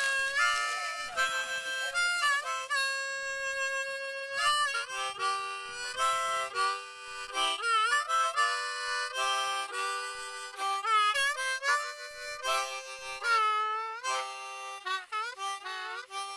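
A harmonica playing a melody, with some notes bent in pitch.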